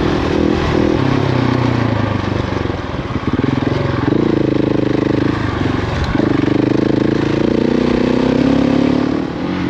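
Motorcycle engine running on the move, recorded from the rider's bike. The engine note steps up and down several times as the throttle and gears change, with short drops in level around three and six seconds in.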